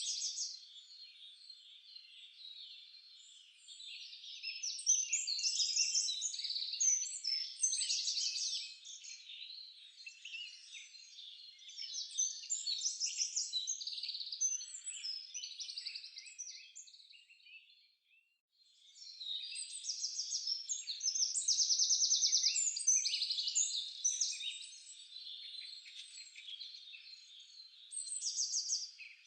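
Several songbirds singing at once in a forest chorus: overlapping high chirps and fast trills that swell and fade. About eighteen seconds in it drops out to near silence for half a second.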